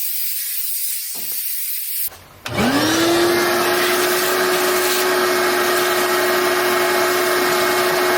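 Air hissing for about two seconds, as when blowing out a vehicle cab. After a brief pause a vacuum cleaner motor spins up, rising quickly in pitch, then runs steadily with a loud whine.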